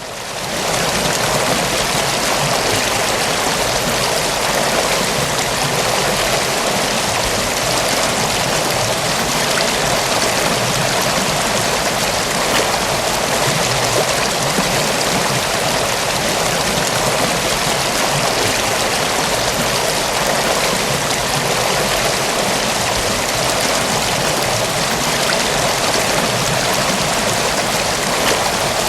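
River water rushing and washing steadily, one continuous even sound that fades in at the start.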